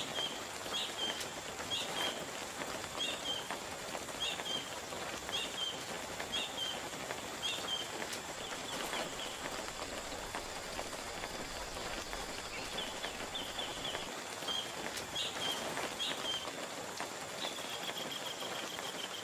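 Steady rain with short high-pitched calls from a small animal, repeated about once a second, then a brief trill, a few more calls and a longer falling trill near the end.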